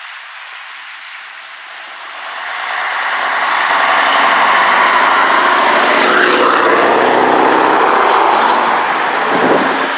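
Vintage Scania truck's diesel engine driving past. It grows louder from about two seconds in, holds for several seconds, then fades near the end.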